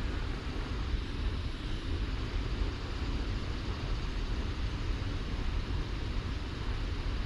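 Wind buffeting the microphone: a steady, noisy rush that is heaviest in the low end and wavers in strength.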